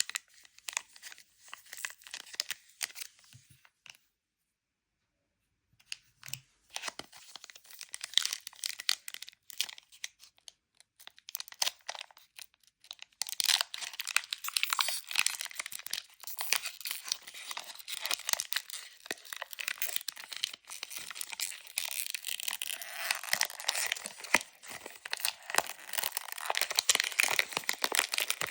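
Pokémon card packaging being crinkled and torn open by hand: scattered crackles at first, a brief dead gap about four seconds in, then denser, continuous crinkling and tearing from about halfway on.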